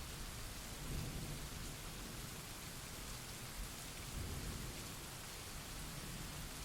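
Steady rain with low rumbles of thunder, swelling about a second in and again just past the four-second mark.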